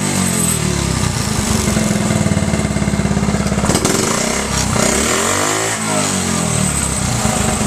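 1968 Honda Mini Trail's small single-cylinder four-stroke engine running and being revved, its pitch falling off and climbing again twice.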